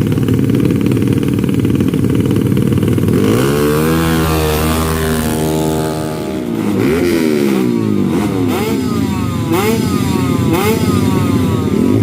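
Drag-racing motorcycle engines. A rough low running comes first, then about three seconds in an engine revs up and holds a high note. From about seven seconds it is blipped again and again, each rev rising in pitch, roughly once a second.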